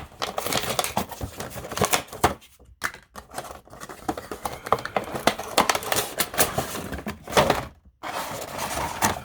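Cardboard box and plastic packaging being opened and handled: a run of rustling, crinkling and sharp clicks and taps as a boxed vinyl figure is unpacked.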